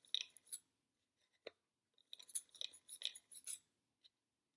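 Small, quick clicks and scratches of the foam-plate helicopter's propeller and wire hook being turned by hand to wind up its rubber band. They come in two clusters with a single click between them.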